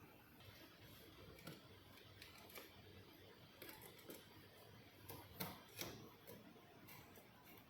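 Faint, scattered clicks and taps of small hard objects, about seven or eight in all, the loudest pair a little over five seconds in.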